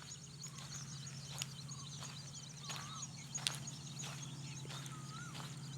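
Many small birds chirping and twittering in quick high notes, with two lower whistled notes that rise and fall, one about halfway through and one near the end, over a steady low hum and a few sharp clicks.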